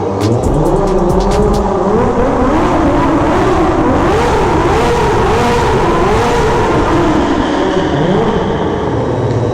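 Kawasaki ZX-6R 636 inline-four engine being ridden, revving up and falling back again several times as the throttle is worked.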